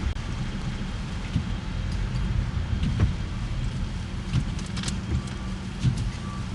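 Car driving: a steady low rumble of engine and road noise, with scattered light clicks and knocks.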